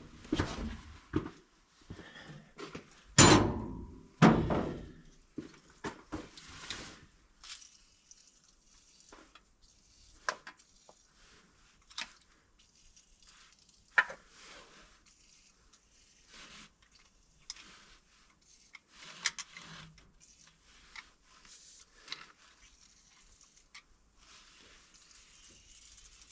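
Hand tools and metal parts being handled and set down on an engine's open valve train: two louder thunks about three and four seconds in, then scattered light clinks and knocks.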